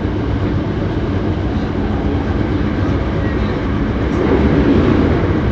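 Hankyu 7300-series electric train car running at speed, heard from on board. A steady rumble of wheels on rail and running gear swells louder about four seconds in. The car is one noted for an unusual running noise.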